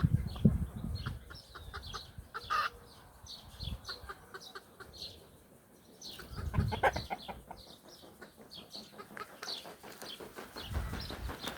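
Birds calling: many short, quick chirps and clucks, with a few low rumbles underneath.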